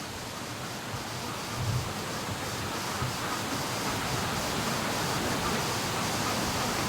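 Strong gusting wind blowing across the microphone and through the trees, a steady rush that slowly grows louder.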